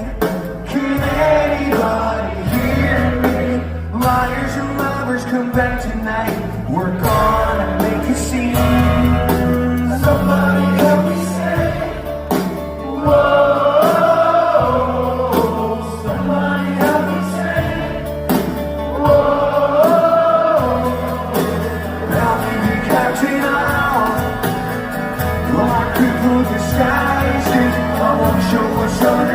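Live rock band playing while a crowd sings the melody along with it, many voices together over the guitars, bass and drums.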